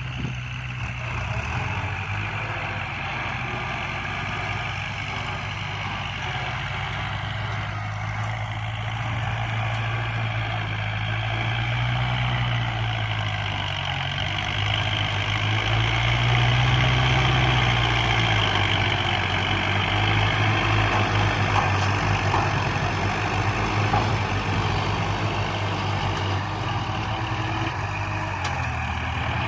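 Kubota farm tractor diesel engines running under load while pushing soil, a steady low drone that swells and eases a little as the load changes, loudest about two-thirds of the way through.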